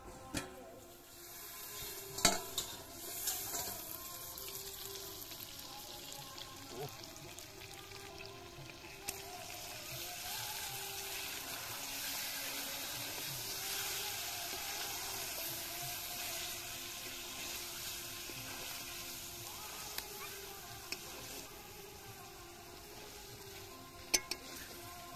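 Pork pieces frying in a thick masala in a metal wok, sizzling steadily. A few sharp clicks of a utensil against the pan come about two seconds in and again near the end.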